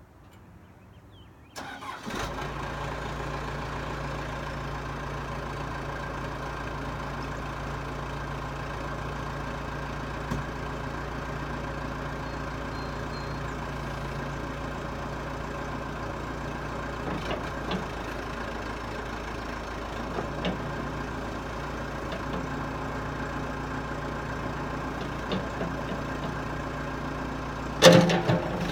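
Case 580 Super M backhoe's diesel engine starting about two seconds in and then idling steadily. A loud clank near the end.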